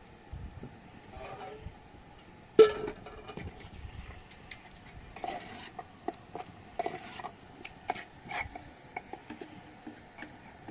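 Kitchenware being handled: a utensil clinking and scraping against pots and dishes, with one loud ringing clang about two and a half seconds in and a run of lighter clinks a few seconds later.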